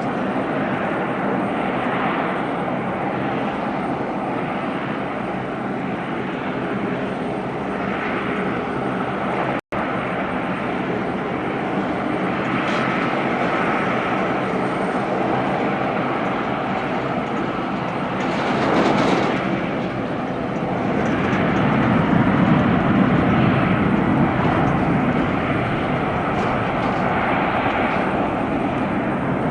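Jet airliner's engines running at high takeoff thrust in a steady loud rumble, cut off for an instant about ten seconds in, then swelling louder twice in the second half as the aircraft accelerates and climbs past.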